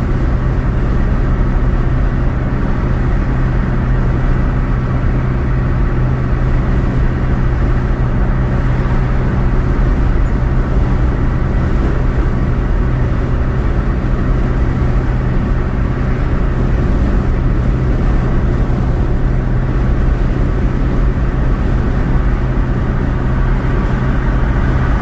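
Steady road and engine noise of a car driving at highway speed, heard from inside the cabin, with a constant low hum.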